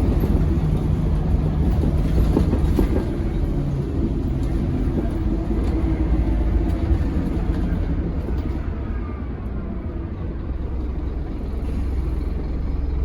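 Scania K270UB tri-axle Omnilink bus under way, its five-cylinder diesel running under a steady road rumble and body rattles. The engine note eases off about eight seconds in and picks up again near the end.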